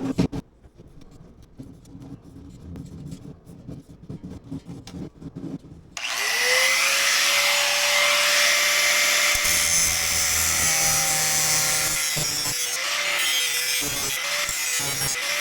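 A few seconds of handling clicks and knocks, then an angle grinder spins up with a rising whine and cuts into a metal chimney liner extension pipe, a harsh hiss of the disc on the metal over a steady motor tone. Near the end the motor's pitch dips again and again as the cut loads it down.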